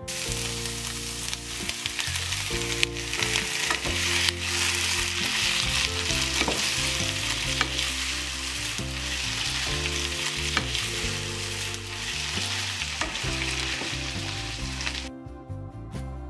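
Food sizzling in hot oil in a frying pan, a steady hiss with scattered pops and ticks, cutting off suddenly about fifteen seconds in. Background music plays underneath.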